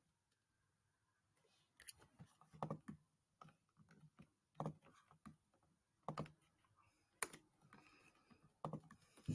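Faint, irregular clicks and light taps, about a dozen over several seconds, against near silence.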